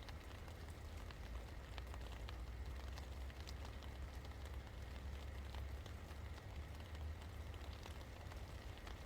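Steady light rain, with many scattered drops ticking irregularly, over a constant low rumble.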